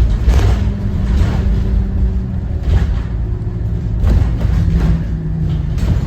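Thomas Saf-T-Liner C2 school bus under way, its Cummins ISB 6.7 inline-six turbo diesel running with a heavy low rumble and a steady engine note that shifts in pitch about halfway through, with scattered knocks and rattles from the bus body.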